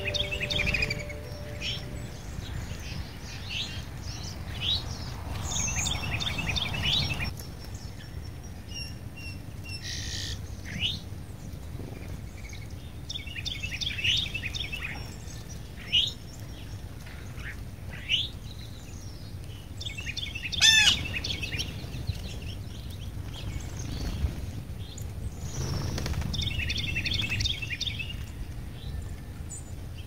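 Songbirds chirping and calling: repeated runs of quick chirps and short downward whistles, with one louder call about 21 seconds in. Underneath is a low, steady background rumble.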